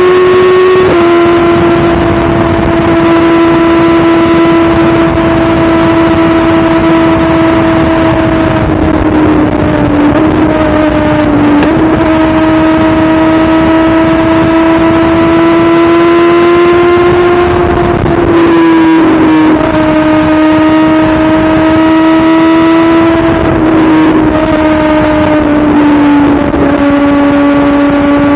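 BMW S1000RR's inline-four engine running hard while riding, a strong steady note whose pitch drifts slowly up and down, with a few short dips where the revs drop. Wind noise rushes underneath.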